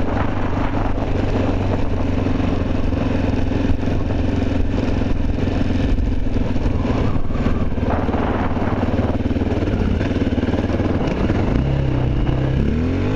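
Honda XR650L's big single-cylinder four-stroke engine running steadily under load while riding, with wind noise on the microphone. Near the end the engine note dips and then climbs again as the bike accelerates hard, enough that the front wheel wants to lift.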